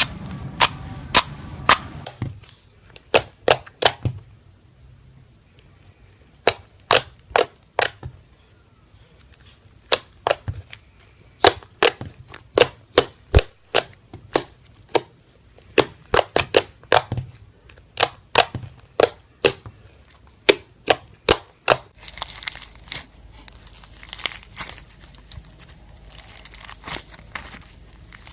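Slime being squeezed and pressed, letting out sharp popping clicks of trapped air in quick clusters of two to six. From about 22 s in, the pops give way to a continuous crinkling crackle as the slime is worked.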